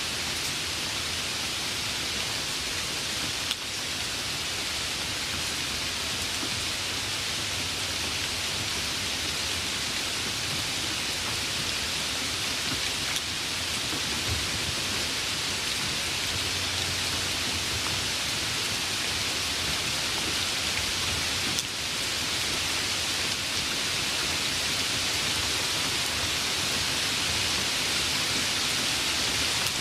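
Steady rain, a dense even hiss, with a faint low rumble near the middle.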